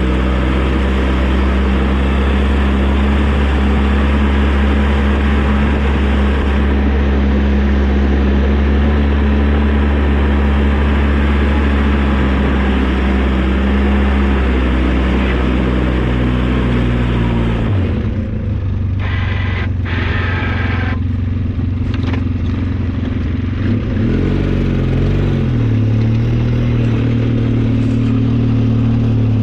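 Engine of an old snowplow vehicle running steadily under load while plowing. About 18 seconds in the engine speed drops sharply, and around 24 seconds it revs down and back up again.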